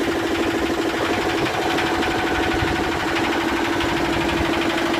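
Yanmar SB12 single-cylinder marine diesel running steadily with an even, rapid rhythm, sounding constant and strong now that its fuel line is repaired and the air bled out.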